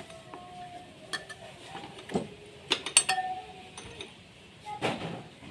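A few sharp metallic clinks and taps: one about a second in, a quick cluster near three seconds, and one near the end.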